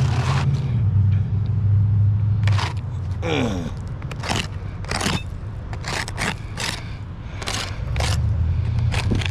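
A roof shingle being worked loose and pulled out from under the course above: about a dozen short, rough scrapes from a few seconds in, one with a brief falling squeal. A steady low rumble runs underneath and drops away in the middle.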